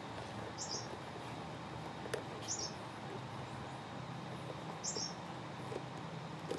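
A small bird chirping: three short, high chirps about two seconds apart. A couple of faint clicks can be heard over a steady background.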